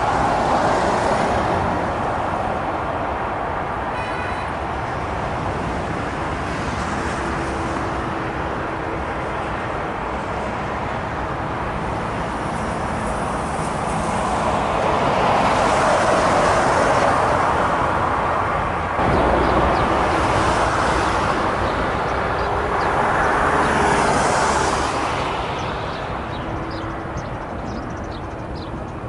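Jet engines of heavy widebody airliners at take-off thrust: a broad rushing noise that swells and fades as the aircraft pass, with a sudden jump in the sound about two-thirds of the way through.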